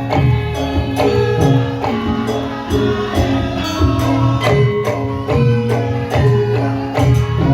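Javanese gamelan music for a lengger dance: struck metal keys and gongs ring out in a steady, even beat over low drum strokes.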